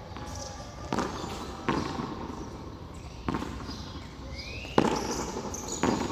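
Frontón handball rally: a ball slapped by hand and smacking off the wall, five sharp echoing impacts at uneven intervals of about a second, the loudest a little before the end. A short rising squeak comes just before the loudest hit.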